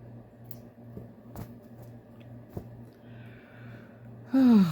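A short voiced sigh with falling pitch near the end, over a steady low electrical hum and a few faint small clicks.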